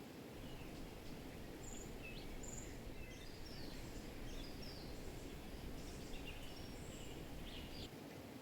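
Small birds chirping: a run of short high notes and quick falling chirps over a steady rushing background noise.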